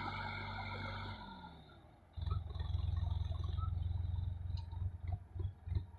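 Sonalika 35 DI tractor's diesel engine running steadily, then winding down in pitch and dying away about a second and a half in. A low, uneven rumble with separate thumps follows.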